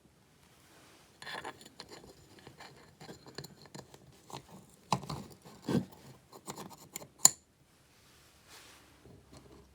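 Chainsaw parts being handled and fitted together by hand during reassembly: an uneven run of light clicks, taps and scrapes starting about a second in, with a sharp click about seven seconds in, the loudest.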